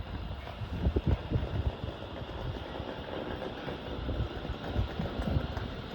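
Low, steady train rumble with a few deeper thumps about a second in.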